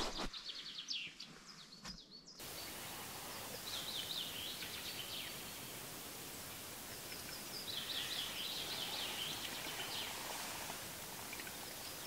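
High-pitched bird calls in two runs of quick descending notes, the second run longer, over a steady outdoor hiss.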